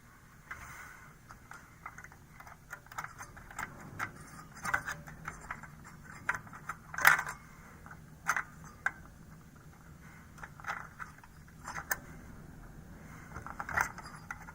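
Irregular small clicks and scrapes of a CR2032 coin-cell battery and its metal retaining tab being pushed and pried at in a motherboard battery socket, with the cell refusing to seat. The loudest clicks come about halfway through.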